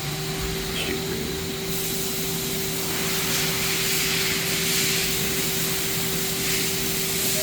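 Mazak QTS 300 CNC lathe spindle starting and running up: a steady motor hum comes in at the start, and a high hiss grows about two and three seconds in as the spindle gathers speed.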